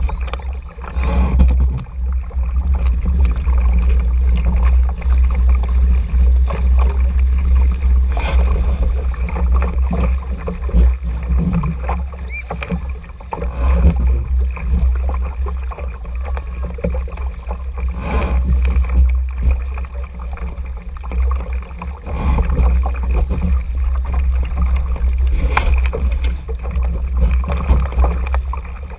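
Wind rumbling on the camera microphone and water rushing and slapping along the hull of an RS Tera sailing dinghy under way. A few sharper splashes or knocks stand out, about a second in and again around the middle and two-thirds of the way through.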